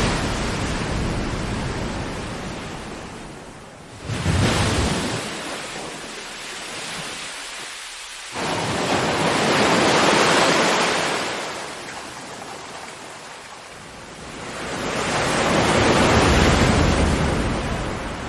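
Ocean waves breaking and washing up the shore in slow swells, each building to a full rush of surf and ebbing away over several seconds, with a sharper crash about four seconds in.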